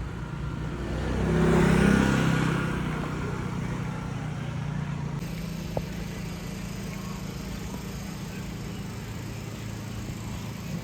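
A motor vehicle going past, loudest about two seconds in, then a steady low engine hum.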